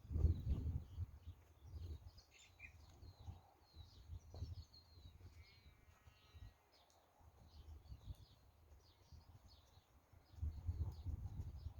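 Wind buffeting the microphone in gusts, strongest at the start and again near the end, with small birds chirping throughout and a short trilled call near the middle.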